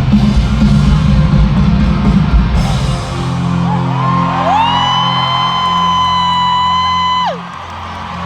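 Live rock band playing loud, full music with drums and guitar. About three seconds in the drums drop out and a low chord rings on, while a single high note slides up, is held steady for about three seconds, then slides down and stops.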